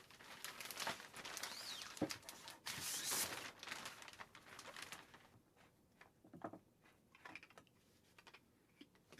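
Faint scratchy strokes of drawing on a silkscreen mesh, with a few sharp clicks, thinning out after about five seconds to scattered light taps.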